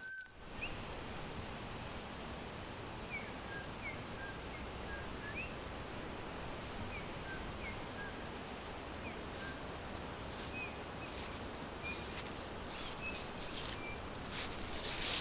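Forest ambience: a steady hiss of background noise with small birds chirping faintly, short high notes, some gliding, every second or so.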